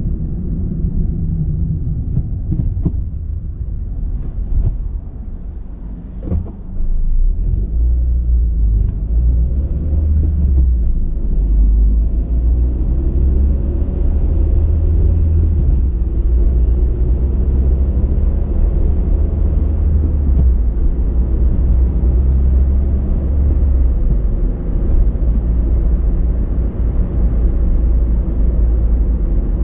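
Car driving on the road: a low rumble of engine and tyres that drops a little around five seconds in, then grows louder and holds steady.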